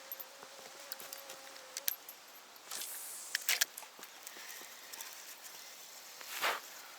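Light clicks and knocks of spinning tackle being worked from a small boat, with a short swish about six and a half seconds in.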